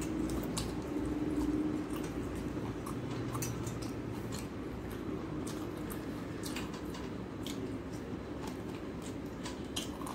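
Close-up chewing and wet mouth sounds of a person eating chicken curry and rice by hand. Scattered small clicks and smacks come throughout.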